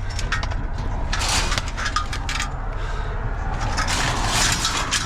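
Pieces of scrap metal clinking and rattling as they are handled and dropped onto a pile of scrap in a van, in three short clusters of light metallic clatter.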